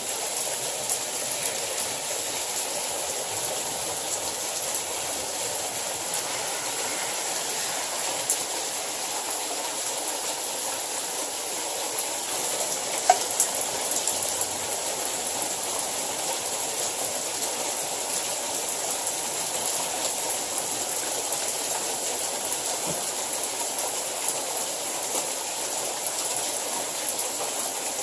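Hailstorm: a steady rush of hail and rain falling, with scattered sharper clicks of individual hailstones striking.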